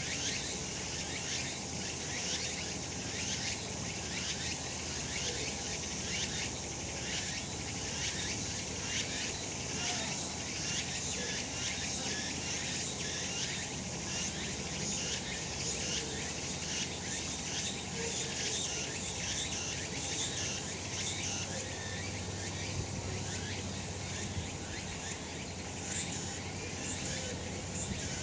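Cicadas singing in chorus: a continuous high-pitched buzzing and trilling that holds at a steady level.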